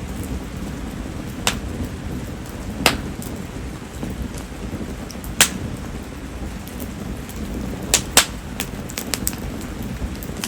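Steady rain falling around a burning campfire of mayumi (Japanese spindle tree) firewood, a wood that barely crackles. A handful of sharp clicks stand out, two of them close together about eight seconds in, followed by a few fainter ticks.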